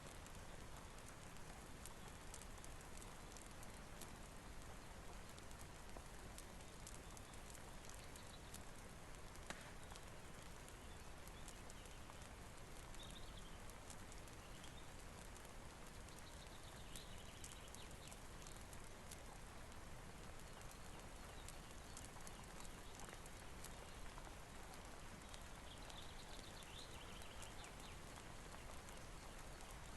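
Faint steady rainfall with the sparse crackle and pop of a wood fire in a fireplace.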